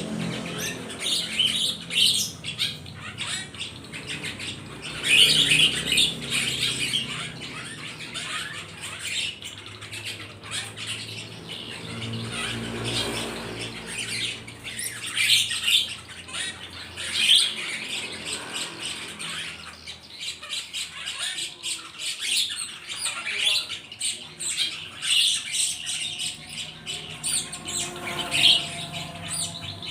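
Several birds squawking and chirping in short, harsh, repeated calls, with a low hum for a couple of seconds in the middle.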